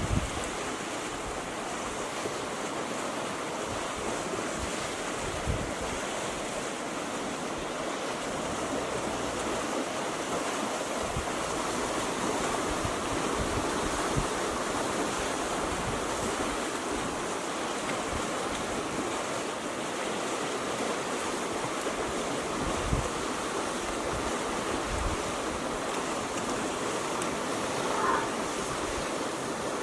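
Steady rushing of flowing river water, with a few brief low thumps.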